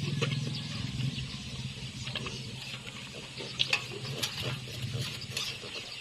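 Pigs at close range: a low, pulsing grunt-like sound under higher, noisy cries, with scattered sharp clicks.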